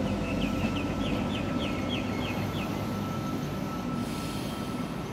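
Train moving past on the station tracks, its low rumble slowly fading as it moves off. A string of short high chirps, about three a second, sounds over it during the first few seconds.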